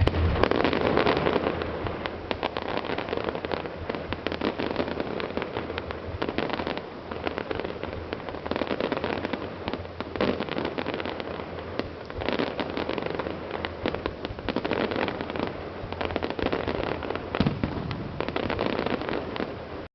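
Fireworks going off: a dense, continuous crackle of many small rapid bursts, with a few louder bangs standing out, one about halfway through and one near the end.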